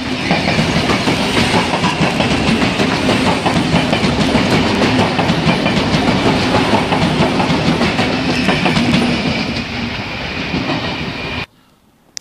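Double-deck electric commuter train passing close at speed: a loud, steady rushing noise with rapid clacking of wheels over rail joints. The sound cuts off abruptly about eleven seconds in.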